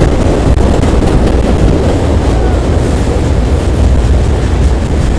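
Auto rack freight cars rolling across a steel trestle bridge, a loud, steady rumble of wheels on rail that is heaviest in the low end.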